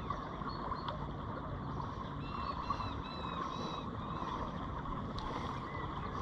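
Steady outdoor wash of water and wind at the wharf, with a bird giving a run of short high chirps about two to four seconds in.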